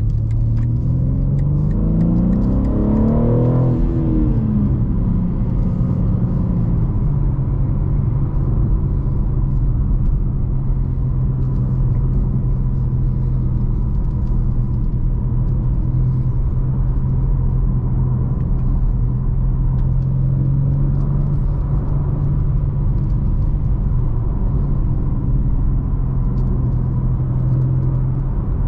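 BMW M3 G80's 3.0-litre twin-turbo straight-six, on its stock exhaust with particulate filter, heard from inside the cabin. It revs up steadily for the first few seconds, drops back about four seconds in, then pulls at an even, lower pitch over a constant low rumble of road noise.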